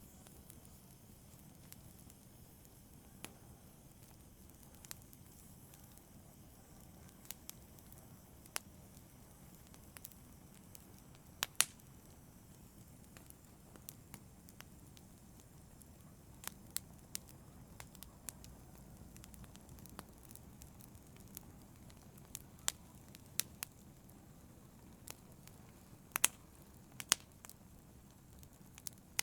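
Wood fire burning in a fireplace: a low, steady rumble with scattered sharp crackles and pops at irregular intervals, a few of them louder.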